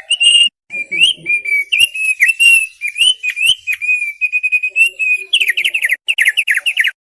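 Thick-billed heleia (opior paruh tebal) singing: a fast, varied run of high whistled notes with quick up and down slurs, ending in a rapid series of down-slurred notes that stops abruptly near the end.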